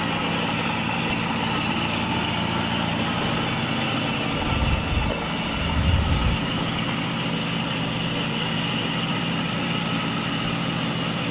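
A 2001 PT Cruiser's 2.4-litre four-cylinder engine idling steadily, with a couple of brief low thuds about halfway through.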